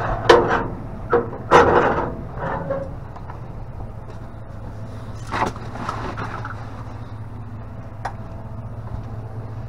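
Knocks, clatter and scraping of objects being shifted and rummaged through in a dumpster, loudest in the first two seconds and again about five seconds in, over a steady low hum.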